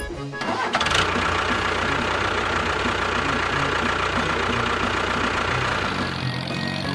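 A small motor runs steadily with a dense, whirring mechanical noise, starting about a second in. Near the end it gives way to background music.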